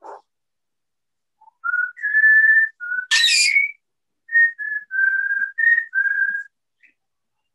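A parrot whistling a string of about nine short, steady, clear notes, with one harsh squawk about three seconds in.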